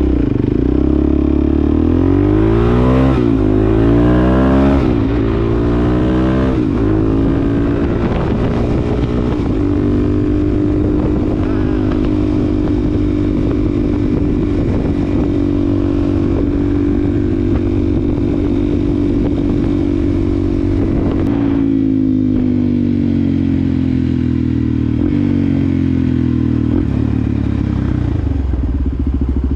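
2020 Suzuki DRZ400SM's single-cylinder four-stroke engine through a Yoshimura exhaust, accelerating through several gear changes in the first few seconds, then holding a steady cruise. About twenty seconds in, the throttle comes off and the pitch falls as the bike slows.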